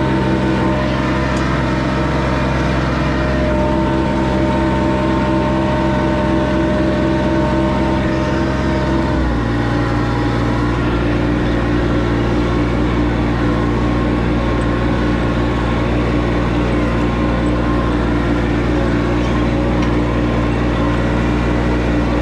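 Case C60 tractor engine running steadily under load while skidding felled trees on a cable. The engine's note changes abruptly about nine seconds in, then holds steady again.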